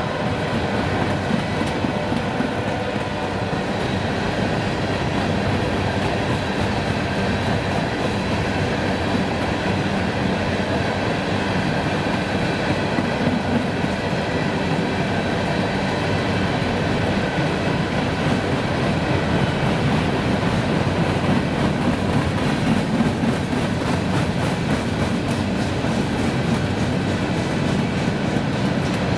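A train rolling past steadily, its cars clattering over the rails.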